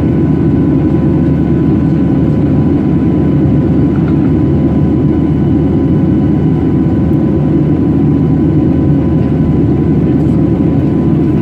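Steady drone of a Boeing 737-800's CFM56 jet engines heard inside the passenger cabin, a constant low rumble with a faint steady hum over it and no change in level.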